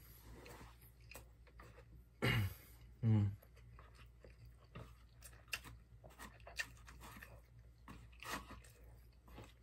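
A person chewing and eating rice and side dishes, with scattered small clicks of chopsticks against the plastic lunchbox tray. There are two short vocal sounds about two and three seconds in.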